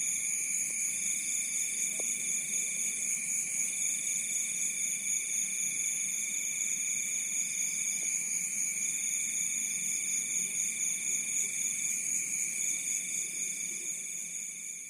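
Crickets trilling, several steady high trills overlapping, one of them stopping and starting every second or two. The sound fades out near the end.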